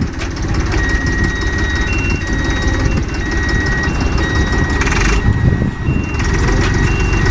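A heavy vehicle's engine running with an electronic reversing alarm: a steady low rumble under a repeating pattern of high beeps that alternate between a few pitches.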